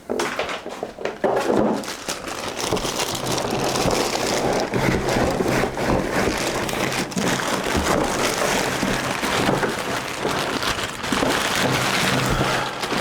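Plastic packaging and cardboard being handled while parts of a floor washer are unpacked: continuous dense crinkling and rustling.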